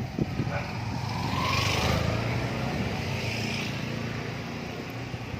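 A motor vehicle's engine running close by, swelling to its loudest about two seconds in and then easing off, over street noise.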